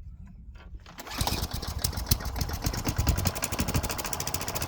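Craftsman wheeled string trimmer's small engine catches about a second in and runs with a fast, even beat. The owner takes this for the engine running on starting fluid rather than on its own fuel, a sign of a dirty carburetor with clogged jets and fuel pickup.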